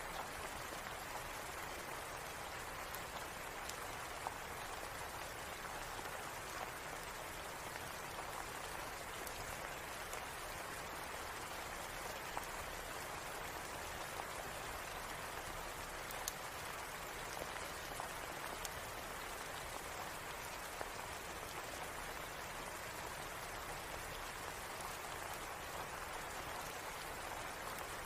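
Steady, even rain, with scattered faint sharp ticks here and there.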